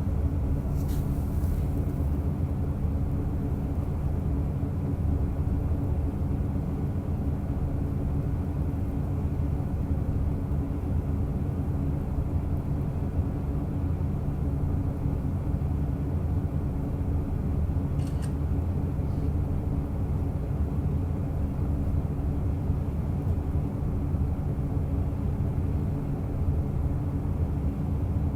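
Diesel railcar running steadily along the line: a constant low engine drone and rail rumble, with a couple of faint brief clicks, about a second in and about eighteen seconds in.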